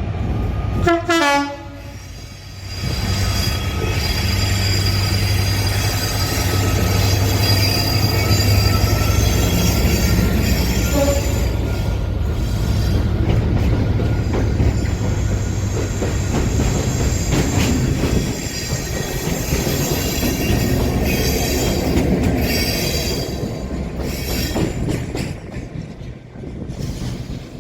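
A train passing close by: a short horn note falling in pitch about a second in, then a long, loud steady pass. Deep rumble, wheels clacking over the rail joints and high squealing from the wheels run through it.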